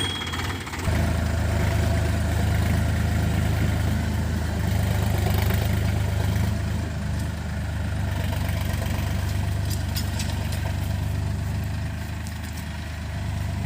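Sonalika tractor's diesel engine running steadily, growing louder about a second in and then holding an even drone.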